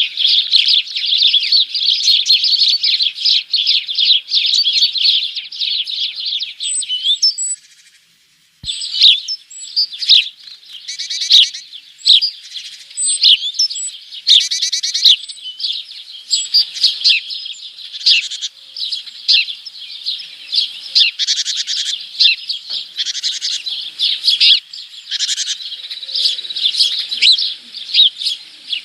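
Small songbirds chirping and twittering densely. There is a brief pause about a third of the way in, followed by separate calls and several short rapid trills.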